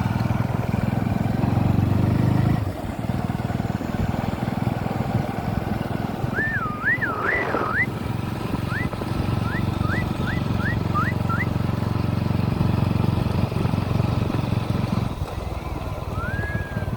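Motorcycle engine running steadily, its rumble heavier for the first couple of seconds. From about six to eleven seconds in, a series of whistled notes sound over it: a few wavering ones, then several short rising ones. One longer whistle comes near the end.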